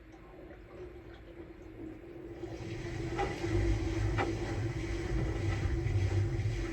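Samsung Bespoke Grande washing machine running: a steady hum, joined about two and a half seconds in by a low rumble that grows louder, with two light clicks.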